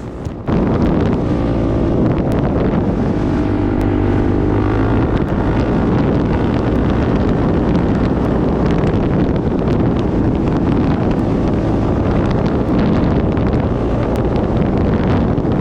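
Honda TRX450R quad's single-cylinder four-stroke engine pulling away and accelerating, its pitch climbing over the first few seconds, then running steadily under way, with wind buffeting the microphone.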